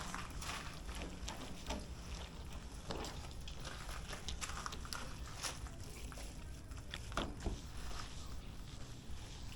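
Hand-washing a car with soap: irregular soft knocks and rubbing noises over a steady low rumble.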